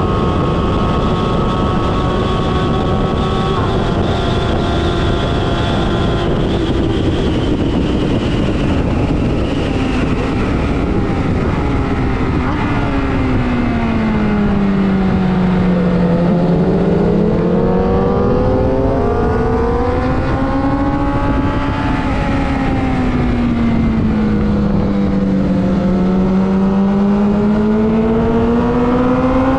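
Sport bike engine lapping a racetrack over a dense rush of noise: held high at first with a couple of small drops in pitch from gear changes, then falling away a little under halfway through, and rising and falling twice as the rider brakes and gets back on the throttle.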